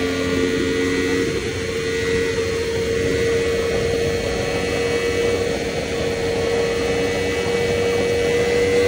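Yamaha R1's crossplane inline-four through an Akrapovič titanium exhaust, pulling at full speed in fourth gear above 200 km/h, its steady note rising slowly as the revs climb. Heavy wind rush runs underneath.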